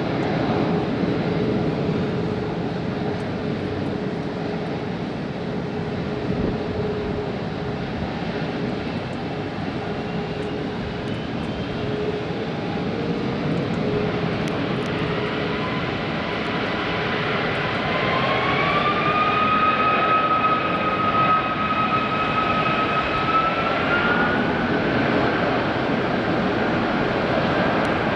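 Boeing 747-400's Rolls-Royce RB211 jet engines running steadily. About two-thirds of the way in, a whine rises in pitch and holds, then climbs again near the end as the engines spool up.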